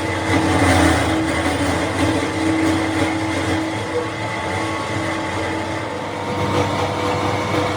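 Industrial machinery running steadily, a continuous mechanical hum with a few steady tones over a noisy drone.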